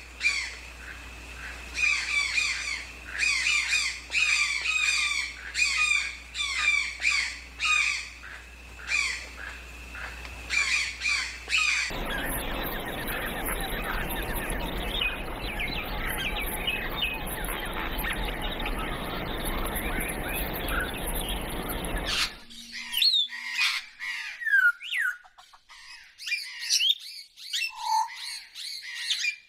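Birds calling. Rapid repeated harsh calls come first, then from about twelve seconds in a dense din of many birds at once, which cuts off suddenly near the three-quarter mark and gives way to scattered single calls.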